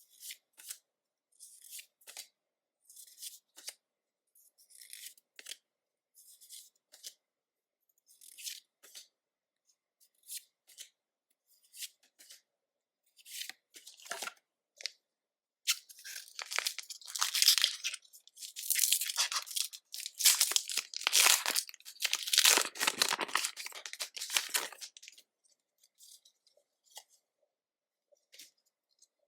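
Short scattered rustles and slides of trading cards being handled. About halfway in comes about nine seconds of loud, dense tearing and crinkling as a Pokémon booster pack's foil wrapper is ripped open.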